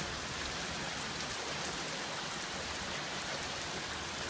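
Heavy rain falling, a steady even hiss of rain on the ground and surfaces.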